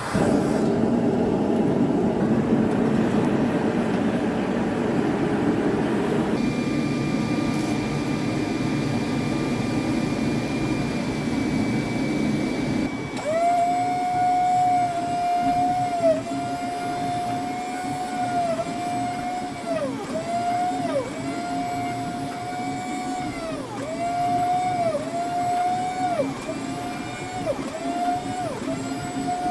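Electric power-tool motor running. For the first half it gives a rough, noisy hum. About halfway through it settles into a steady whine that sags briefly in pitch every second or two, as if it is loaded again and again.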